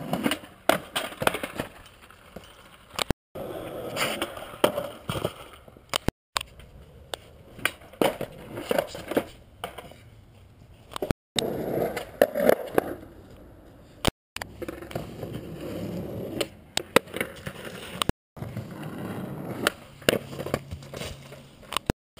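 Skateboard wheels rolling on pavement, with repeated sharp clacks from tail pops, landings and the board hitting the ground. The sound breaks off abruptly every few seconds, as short clips are cut together.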